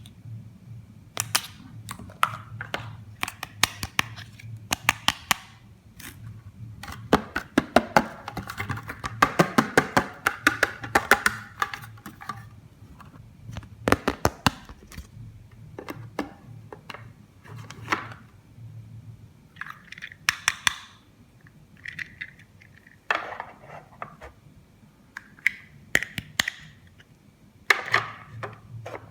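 Plastic toy pieces being handled and set down: a run of sharp clicks and taps, thickest in the middle, where a stretch of rustling joins them.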